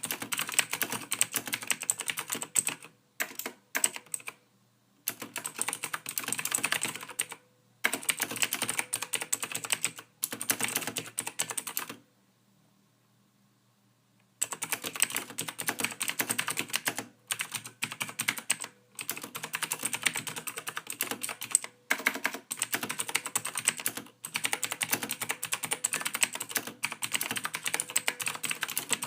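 Computer keyboard being typed on in quick, continuous runs of key clicks, broken by short pauses and one silent stretch of about two seconds near the middle.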